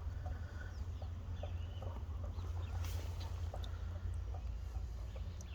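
Birds calling in the surroundings with repeated short chirps and clucks, over a steady low rumble.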